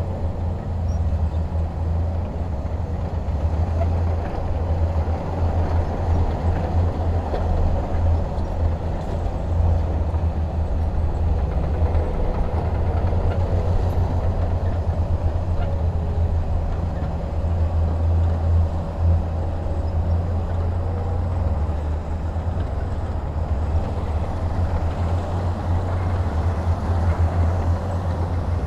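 Heavy diesel engine running steadily under load with a deep, continuous rumble.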